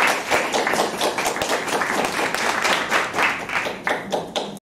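Audience applause: dense hand clapping from many people, cutting off suddenly near the end.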